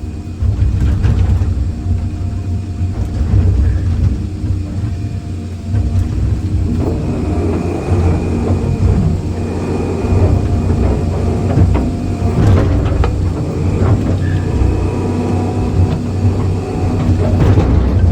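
Excavator engine running steadily as the machine works, with occasional clanks and knocks from the bucket handling concrete blocks.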